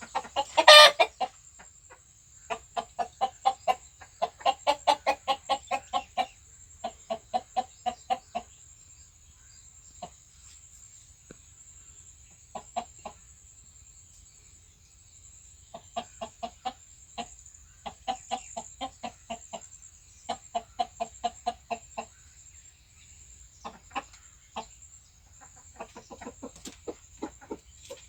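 Desi chickens clucking in quick runs of short, low clucks, several a second, with pauses between runs; one louder call stands out just under a second in. A faint steady high whine runs underneath.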